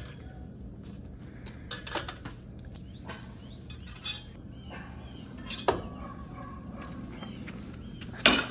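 A few scattered light metallic clinks and taps, as of metal things being handled, over a low steady hum, with a louder knock near the end.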